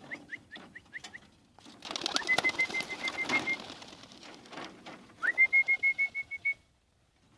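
Young racing pigeons being released: a quick run of high chirps, then a flurry of noise with a long, steady high whistle that rises at its start, heard twice.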